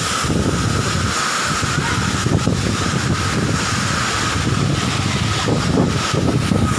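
Steady rushing noise of a waterfall's falling water, with wind buffeting the microphone.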